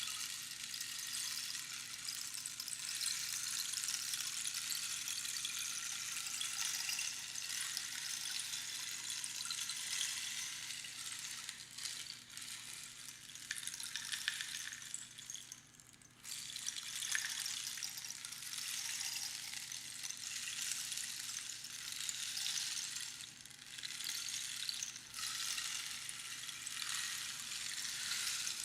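Rainstick turned over and over: a continuous hiss of small pebbles trickling down past the pins inside the hollow tube, swelling and easing. There are a few short lulls, the deepest about sixteen seconds in, before the cascade picks up again.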